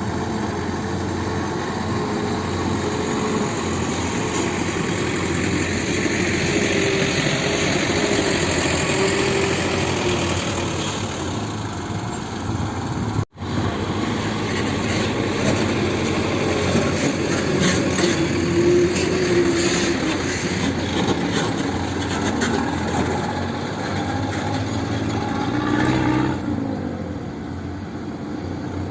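Heavy diesel engine running steadily, its pitch wavering up and down. The sound breaks off for an instant about halfway through. It rises briefly near the end, then settles a little quieter.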